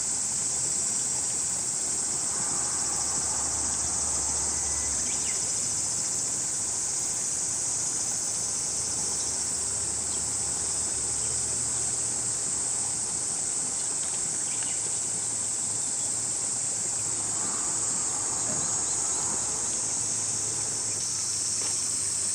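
A chorus of cicadas singing, a steady high-pitched drone with no breaks.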